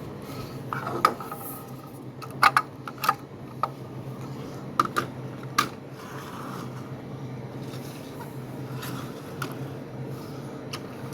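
Small diecast toy cars and their plastic accessories clicking and clacking as they are handled and set down on a hard surface, about half a dozen sharp knocks in the first six seconds, then lighter handling over a steady low hum.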